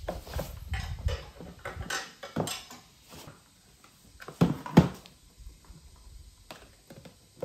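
Handling noise: scattered knocks and clatter as things are moved about on a bench, with two sharper knocks close together about four and a half seconds in.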